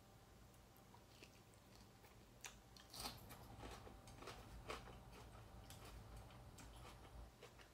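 Faint close-up chewing of a mouthful of baby bok choy, with scattered soft crunches, the clearest about three seconds in.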